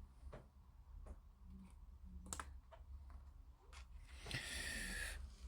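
Faint, scattered clicks and light taps of small hobby tools and plastic kit parts being handled on a workbench, with a brief papery rasp about four and a half seconds in as a decal sheet is cut or handled.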